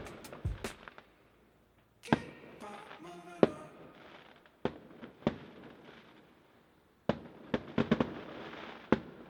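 Aerial fireworks going off: a series of sharp bangs with echoing tails, with a stretch of crackling about two to three seconds in and a quick run of bangs near the end.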